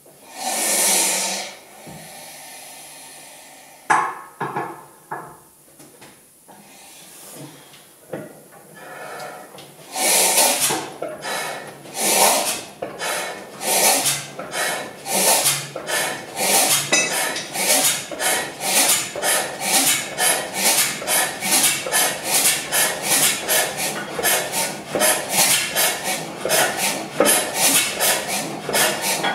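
Crossley slide-valve stationary gas engine being started: a short hiss and a few metallic knocks, then about ten seconds in the engine begins turning over with a regular beat that quickens to about three beats a second as it comes up to speed.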